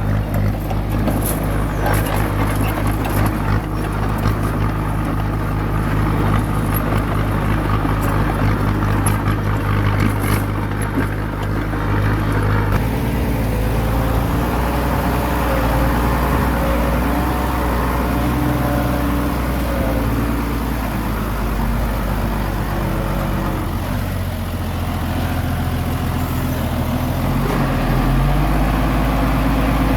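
Heavy diesel engine of a Komatsu crawler bulldozer running steadily, with scattered sharp clanks in the first part. About halfway through the engine note changes and a wavering higher whine comes in for several seconds.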